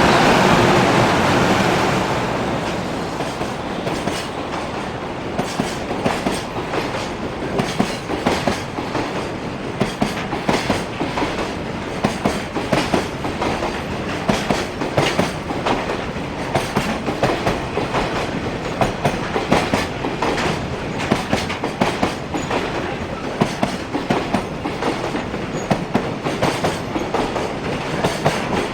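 Container freight train's wagons rolling past, their wheels clattering over rail joints in a continuous run of sharp clicks. The first couple of seconds are a louder rush.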